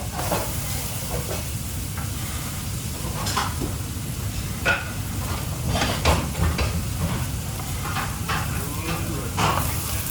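Food frying in a pan while being stirred, with a handful of sharp clinks and scrapes of a utensil against the pan over a steady low rumble.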